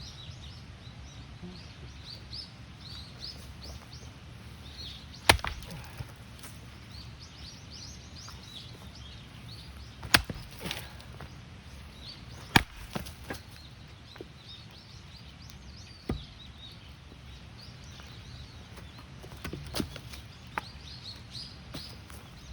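Axe blows splitting firewood: about five sharp, separate chops a few seconds apart, with small birds chirping throughout.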